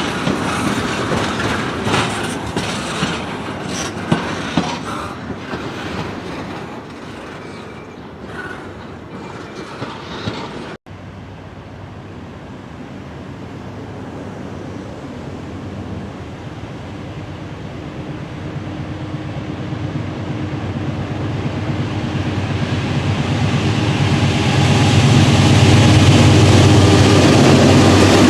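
Freight cars rolling past, wheels clicking and knocking over rail joints. After a sudden cut about eleven seconds in, diesel freight locomotives approach, their engine drone growing steadily louder until it is the loudest sound near the end.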